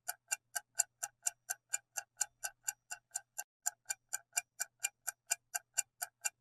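Ticking clock sound effect used as a quiz countdown timer, with even ticks at about four a second.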